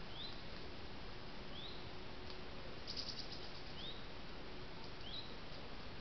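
A small bird repeating a short, rising chirp, four times a second or two apart, over a steady hiss. A brief burst of quick ticks comes about halfway.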